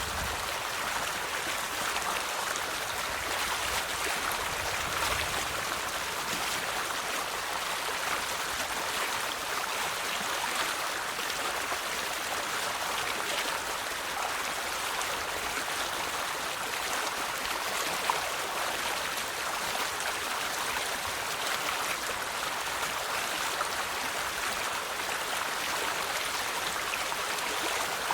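River water flowing over stones, a steady babbling and trickling rush with no breaks.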